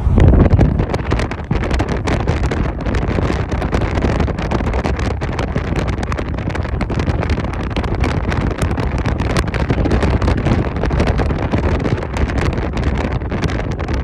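Strong wind buffeting the microphone: a loud, rumbling rush broken by irregular gusts.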